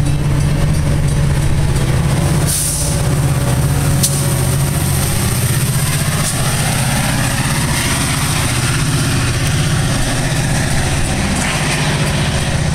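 Metra commuter train's diesel locomotive running with a steady low drone as the train pulls out of the station, with a constant hiss of rain and a single sharp click about four seconds in.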